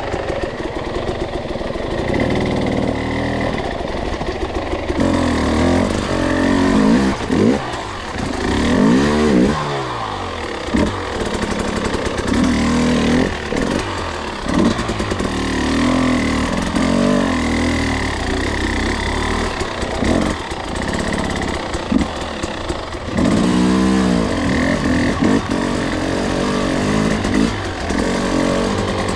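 Two-stroke enduro dirt bike engine riding a trail, its revs rising and falling again and again as the throttle is worked, with occasional knocks and clatter.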